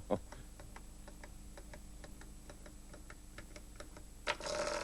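An old mechanical toy's clockwork clicking steadily as it runs, about four or five clicks a second, then a sudden louder, noisier sound near the end.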